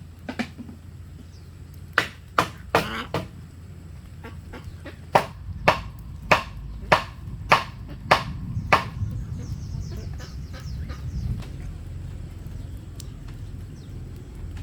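Sharp strikes of a tool on bamboo. A few scattered blows come first, then a run of seven evenly spaced blows about two-thirds of a second apart. Faint high chirping follows, once the striking stops.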